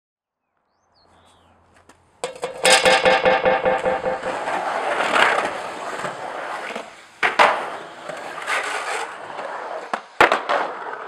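Skateboard riding a concrete backyard pool. Its wheels rattle over the surface with a fast run of clacks starting about two seconds in, then roll on, with sharp board impacts about seven and ten seconds in.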